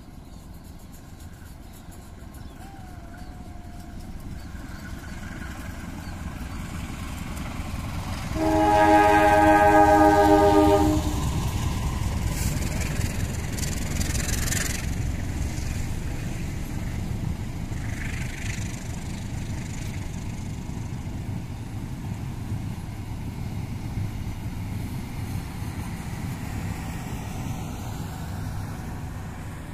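Passenger train approaching with a growing rumble; the locomotive sounds one long horn blast of about two seconds, the loudest sound, and then the carriages run past with a steady rail rumble that slowly eases.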